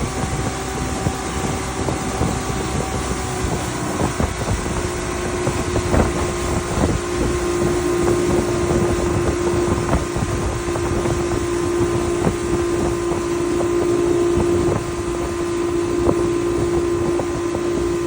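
Motorboat engine running steadily at speed, its pitch rising slightly about four seconds in, with heavy wind buffeting the microphone and frequent short knocks.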